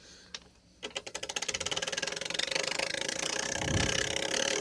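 Plastic bottle held against a bicycle wheel's spokes, clicking as each spoke flicks it. From about a second in the clicks speed up as the wheel gathers speed and merge into a continuous buzzing rattle, a home-made imitation of a KTM motorbike exhaust.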